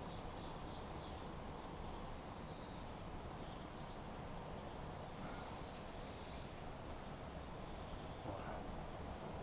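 Faint bird chirping over a steady low background hiss: a quick run of about five high chirps at the start, then scattered single chirps.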